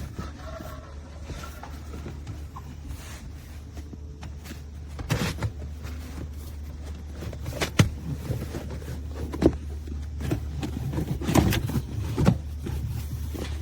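Heavy rubber truck-bed mat being laid and shifted in a pickup's bed: several knocks and thumps in the second half over a steady low hum.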